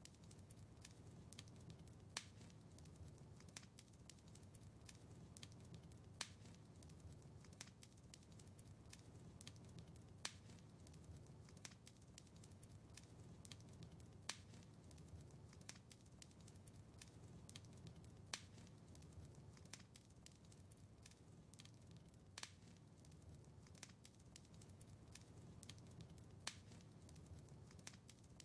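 Wood fire crackling quietly: a steady low rumble of burning with many small crackles and a sharper pop about every four seconds.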